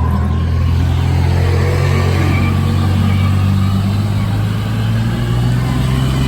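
Vehicle engine running steadily with a deep, loud low drone that holds even throughout.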